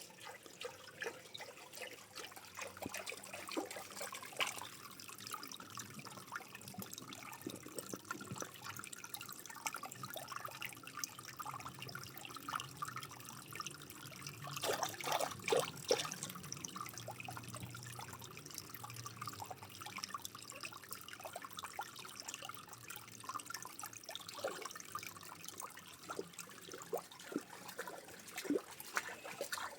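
Water trickling and dripping, with many small splashes and a louder burst of splashing about halfway through.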